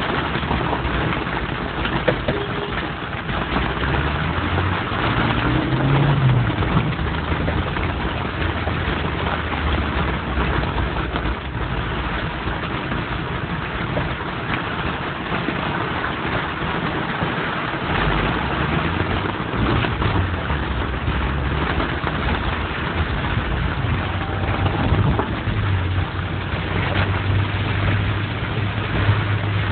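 Road traffic in rain: vehicle engines running with a low hum that shifts in pitch, over a steady hiss of rain and tyres on a wet road.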